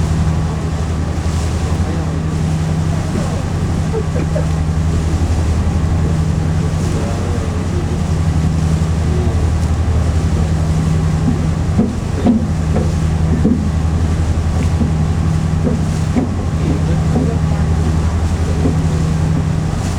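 Steady low drone of a Hakone pirate sightseeing ship's engine under way, with faint passenger voices in the middle of the stretch.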